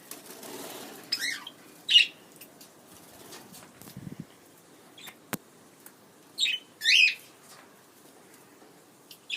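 Budgerigars bathing: short, shrill chirps in two pairs, one about a second in and another near seven seconds in, with wing fluttering between them. A single sharp click comes midway.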